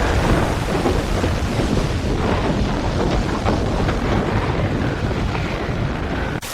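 Loud, steady thunderstorm noise: wind rushing and rain, with a deep rumble on the microphone. It cuts out briefly right at the end.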